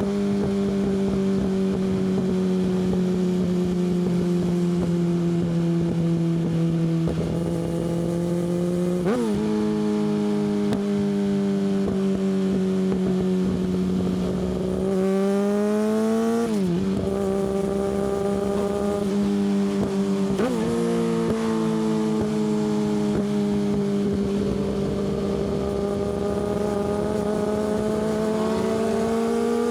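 Yamaha R6 inline-four engine through an Akrapovic exhaust, ridden at a steady mid-range pitch that slowly sags, with a few brief breaks and jumps in pitch at gear changes. The revs climb near the end.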